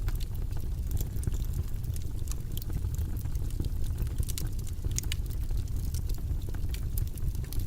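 Steady, low, rumbling white-noise study track, with faint irregular clicks over it.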